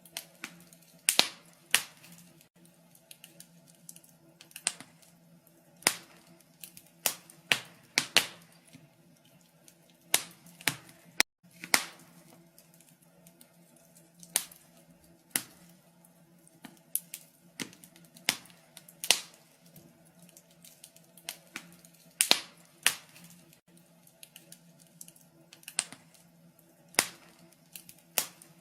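Wood fire burning in a fireplace, crackling with irregular sharp pops and snaps, sometimes several close together, over a faint steady low hum.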